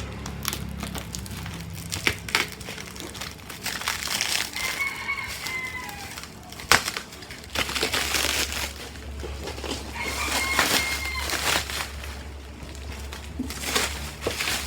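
Plastic cling wrap crinkling and crackling as it is cut and peeled off a cardboard box, with scattered clicks. A rooster crows twice in the background, about four seconds in and again about ten seconds in.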